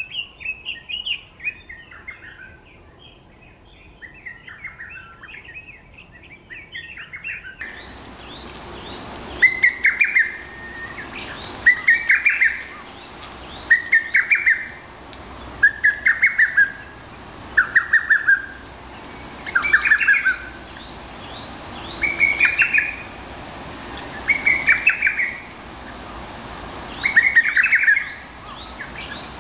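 Small birds chattering with quick calls. About eight seconds in, the recording changes to a lesser cuckoo (hototogisu) singing its short multi-note phrase over and over, about every two and a half seconds, with a faint steady high-pitched tone behind.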